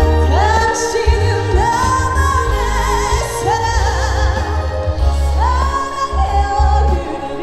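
Female trot singer singing live over an amplified backing track with a heavy bass beat, sliding up into long held notes with vibrato.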